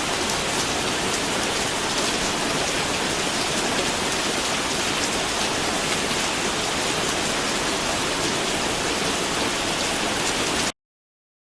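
Steady rain falling, an even dense hiss with no change in strength, which cuts off suddenly near the end into complete silence.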